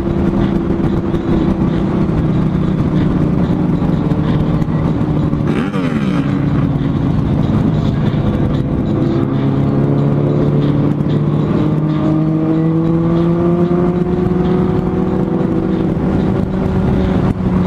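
A vehicle engine running steadily while on the move. A brief falling sweep about six seconds in, and the engine pitch climbs slowly over the last few seconds as it speeds up.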